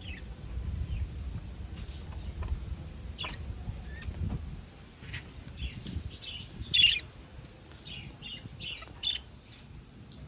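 Birds chirping and twittering in short, scattered calls, with a louder flurry about seven seconds in, over a low steady rumble.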